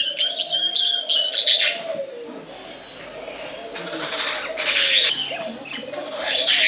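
Birds calling: a quick run of sharp, high chirps in the first two seconds, then scattered calls over a faint wavering lower tone.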